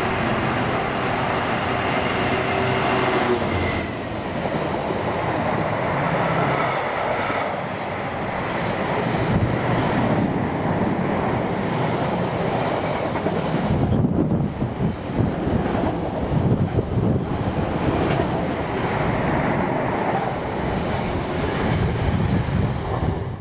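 Freightliner Class 66 diesel-electric locomotive passing close by, its two-stroke EMD V12 engine running with a steady drone. About three seconds in, the engine note gives way to the rumble and clickety-clack of loaded container flat wagons rolling past.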